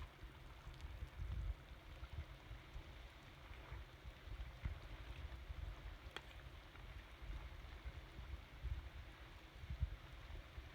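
Wind buffeting the microphone: an uneven low rumble that swells and drops, with faint hiss and a few faint clicks now and then.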